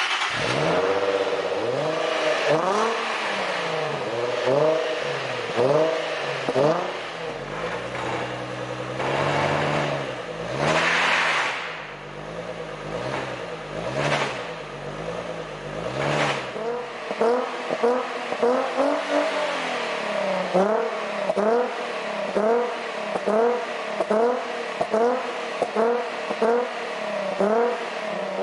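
Infiniti G25's 2.5-litre V6 revved repeatedly through a tuned aftermarket exhaust: a string of throttle blips, each rising and falling in pitch, coming quicker, about one a second, in the second half.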